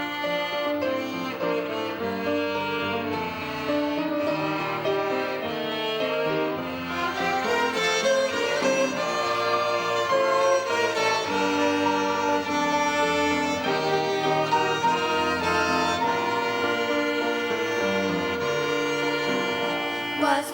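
A violin ensemble playing a hymn tune on bowed strings, with held, overlapping notes, a little fuller about a third of the way in.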